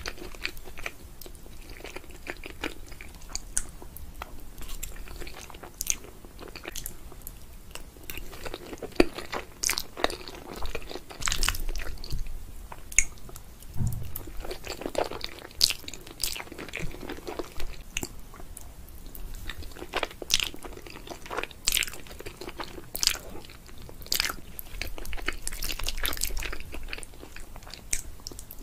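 Close-miked eating of cheesy meat lasagna: chewing with many small sharp mouth clicks and smacks scattered through, and no talking.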